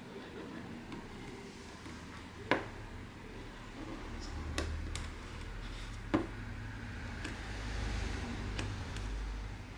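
A few sharp clicks and taps of small repair tools and phone parts being handled on a workbench, the loudest about two and a half and six seconds in, over a low steady hum.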